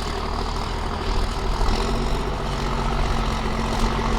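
Heavy trial truck's diesel engine running at steady revs, a low steady drone without changes in pitch.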